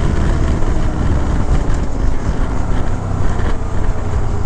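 A 125cc Honda Grom motorcycle engine running steadily while riding, with wind rushing over the microphone.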